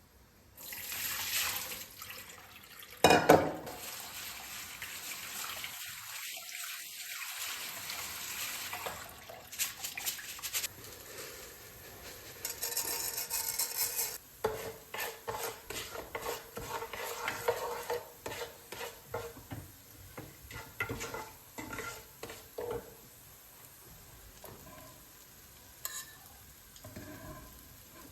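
Food sizzling in a frying pan with a utensil stirring and scraping against the pan, with one sharp knock about three seconds in. From about halfway through come many quick scrapes and clinks, fading near the end.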